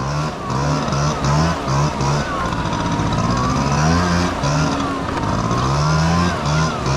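Honda Dio AF18 scooter's 50cc two-stroke single running on the move, its pitch rising and dipping in short repeated surges, with a wavering higher whine and a steady hiss over it.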